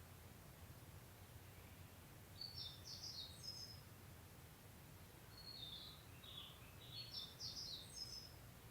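Faint small songbird twittering, two quick runs of high chirping notes, the second longer, over a steady low background hum.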